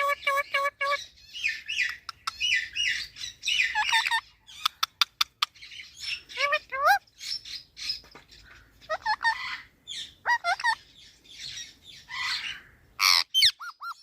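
Pet parrot calling: a fast run of repeated pitched notes, then a string of chirps, squawks and short rising whistles, with a quick series of sharp clicks about five seconds in.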